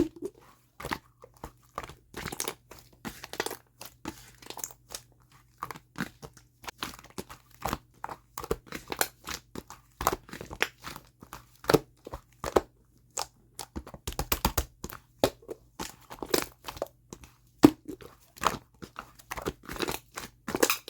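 Slime being squeezed and worked by hand, giving a dense run of irregular crackling clicks and pops.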